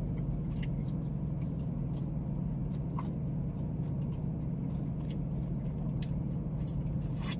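Eating a fried chicken wing: scattered small wet clicks and smacks of chewing and nibbling, over a steady low hum.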